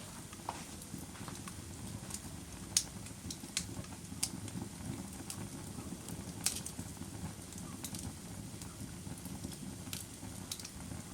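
Wood fire crackling: a steady low rumble with a dozen or so sharp pops, the loudest about three seconds in and again past six seconds.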